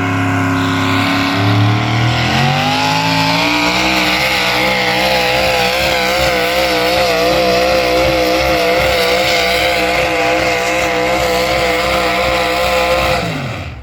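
The engine of a tractor-pull vehicle revs up about two seconds in and holds at full throttle with a wavering pitch while hauling the weight sled down the track. Near the end the revs drop off sharply.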